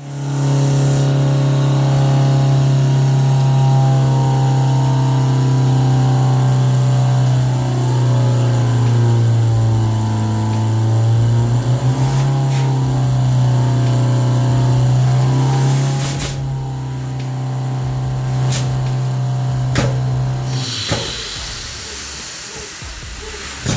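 Deep steam whistle blowing steadily with a strong hiss. Its pitch wavers and dips briefly about halfway through, a few sharp clicks come near the end, and it cuts off about 21 seconds in.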